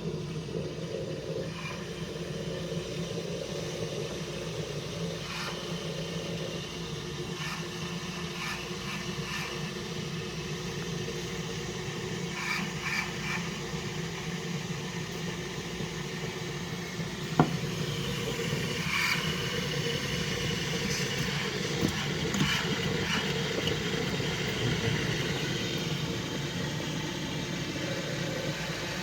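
Coffee machine running with a steady mechanical hum. A single sharp click comes about halfway through, after which it runs a little louder.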